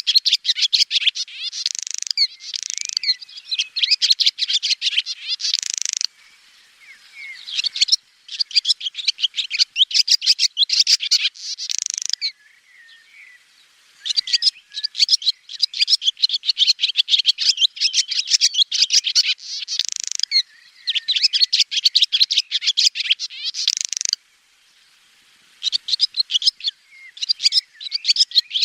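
Swallow twittering: fast runs of high chirps and liquid trills in bouts of a few seconds, broken by brief pauses.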